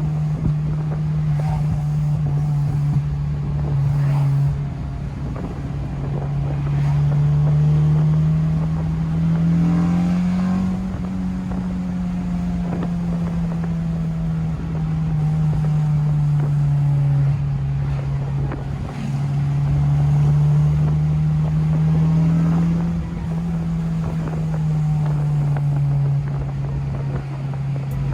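Honda Civic four-cylinder engine and exhaust heard while driving, running with a Hondata burble tune. The engine note holds fairly steady, rising a little and easing back twice as the car speeds up and slows, over road and wind noise.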